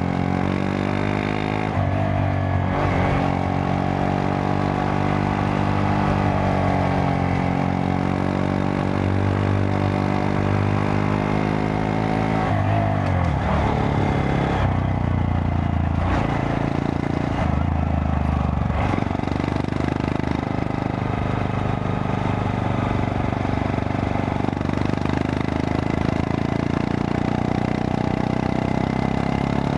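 Honda Monkey 125's single-cylinder four-stroke engine running under way, its note slowly rising and falling with the throttle. The pitch drops sharply about 13 seconds in, then climbs again, with another change near 19 seconds.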